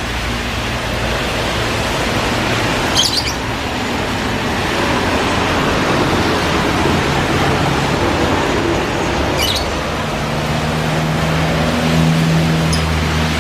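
Birds chirping briefly, twice and then faintly once more near the end, over a loud steady rushing noise.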